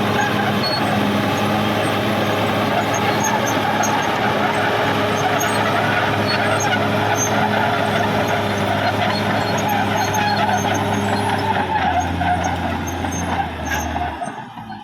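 Caterpillar D6R XL bulldozer's diesel engine running steadily under load, with scattered light clanks over the engine note. The engine note shifts lower about twelve seconds in, and the sound falls away near the end.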